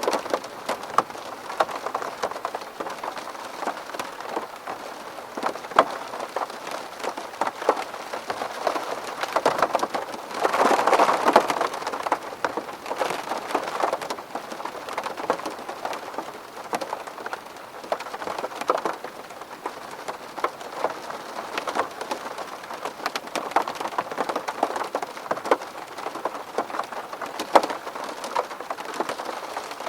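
Rain falling on a window pane: a steady wash of rain with many separate drops tapping on the glass, growing heavier for a couple of seconds about a third of the way through.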